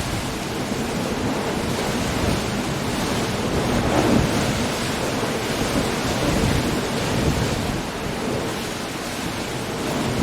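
Coastal storm: heavy rain and wind over surf breaking on rocks, a dense steady rush with slow swells as waves come in.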